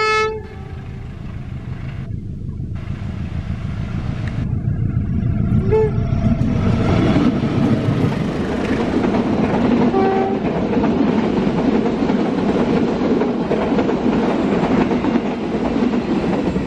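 The last moment of a diesel locomotive horn blast at the very start, then a diesel-electric locomotive and its passenger coaches approaching and passing close by. The engine rumble builds over several seconds into a loud, steady rush of wheels on rails as the coaches go past.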